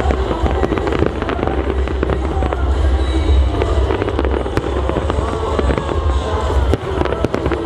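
Display fireworks going off in a quick, uneven run of sharp bangs and crackles over a continuous low rumble.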